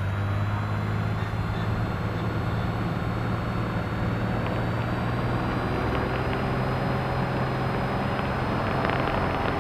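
Cessna 210's six-cylinder piston engine and propeller at takeoff power in the cockpit, a steady drone with a faint whine that rises slowly in pitch as the takeoff roll begins.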